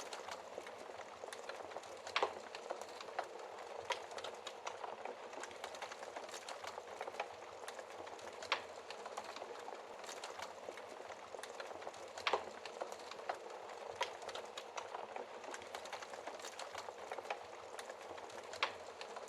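Wood fire in a fireplace crackling steadily, with a few louder sharp pops of burning wood scattered through.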